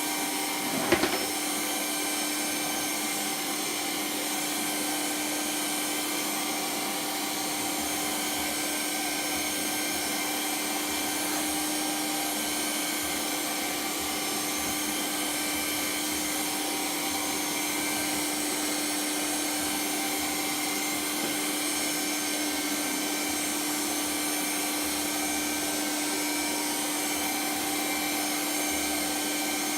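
A motor running steadily with a rushing airflow and a constant hum, with one sharp knock about a second in.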